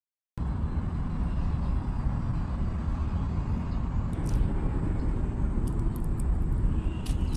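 Steady low rumble of road traffic from the Fourth Ring Road, starting abruptly about a third of a second in, with a few faint high ticks over it.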